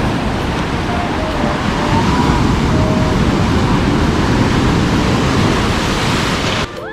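Ocean surf breaking and washing up the shore, with wind rumbling on the microphone. It cuts off suddenly near the end.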